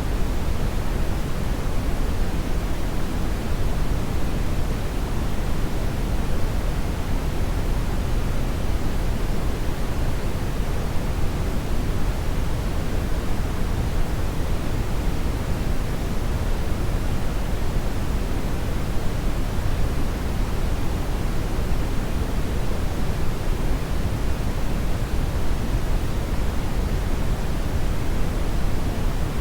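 Hair dryer running steadily: an even, unchanging rush of air, heaviest in the low end.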